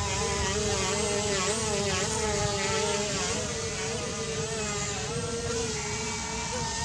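The XK X450 Aviator RC airplane's brushless electric motors and propellers whining in flight, the pitch wavering up and down with the throttle, over a low rumble.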